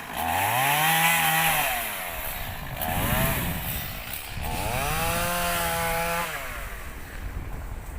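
A small engine revved three times: it climbs to a steady high pitch and holds for about a second, drops back, gives a short blip about three seconds in, then climbs and holds again for well over a second before falling away.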